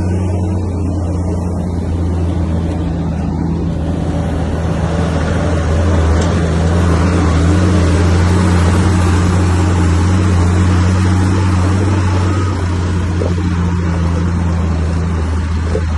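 Komatsu bulldozer's diesel engine running steadily with a deep hum, working harder and louder in the middle before easing off.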